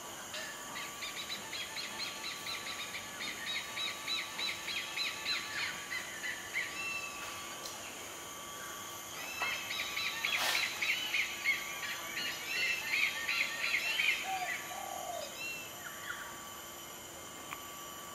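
A bird calling in two long runs of fast, repeated notes, several a second, the second run louder. There is a single sharp click about ten seconds in.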